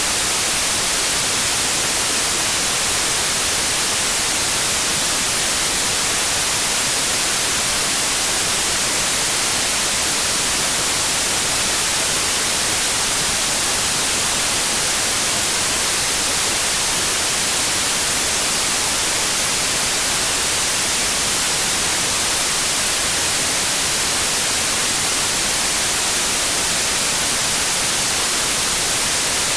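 Steady, unbroken white noise, a hiss with its energy mostly in the high frequencies.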